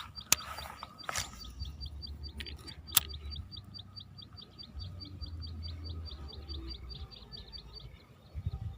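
A bird calling a rapid, even series of short high down-slurred notes, about six a second, which stops near the end. Three sharp clicks stand out above it, the loudest a moment in and about three seconds in.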